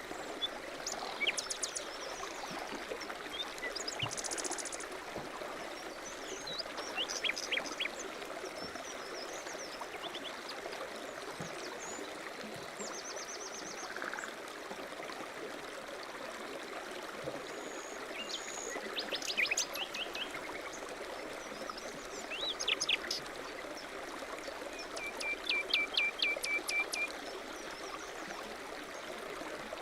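A stream running steadily, with small birds chirping and giving quick trills over it every few seconds, the longest run of trills near the end.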